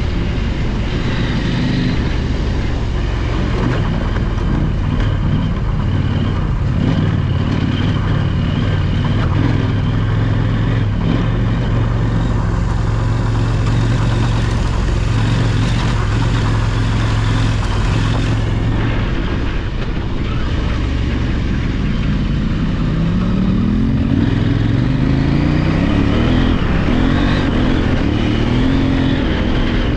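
Parallel-twin adventure motorcycle engine running under way off-road, holding a steady pitch for most of the time, then revving up and down several times in the last third.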